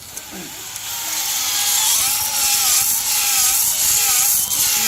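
Air-powered grinder running against a metal surface to clean it, a wavering whine over a loud hiss of air. It builds up over the first couple of seconds, then runs on steadily, its pitch dipping and rising as it is pressed on and eased off.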